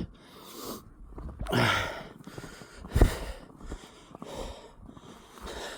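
A man breathing hard, with rough puffing breaths. There is a single sharp thump about three seconds in.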